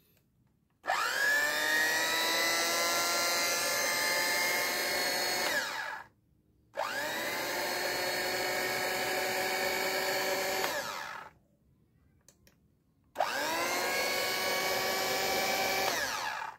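Philips HR 1559 hand mixer's electric motor switched on and off three times, each run lasting about four to five seconds. The whine climbs in pitch as the motor spins up and sinks as it winds down after each switch-off.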